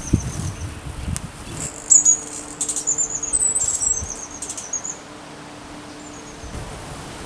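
Green-backed firecrown hummingbird giving high, rapid twittering chirps in several short runs, mostly in the first half. There are a couple of low thumps right at the start.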